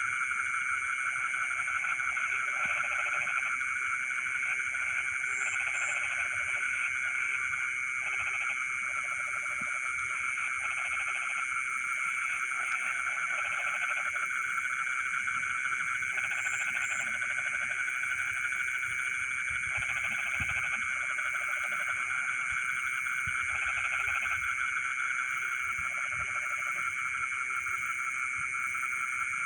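Night chorus of frogs in a rice field: many frogs trilling in a dense, steady chorus, with a high steady buzz above it. A lower-pitched frog calls in short repeated bouts every second or two.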